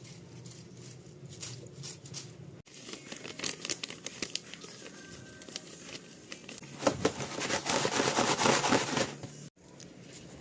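Plastic crinkling and rustling: scattered crackles, then a dense, louder stretch of rustling in the last few seconds before it cuts off abruptly.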